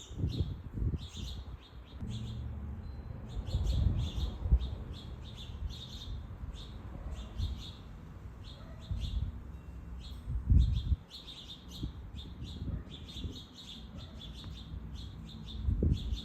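Backyard birds chirping repeatedly in short, quick calls throughout, over a low rumble with a few dull thumps.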